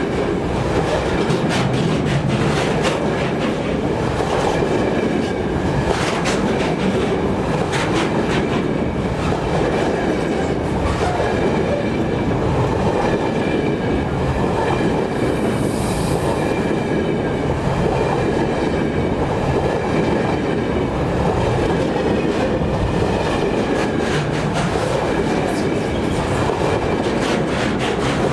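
Freight train of empty wagons behind an M62 diesel locomotive rolling past, a steady rumble with wheels clicking over rail joints and a faint high squeal held above it.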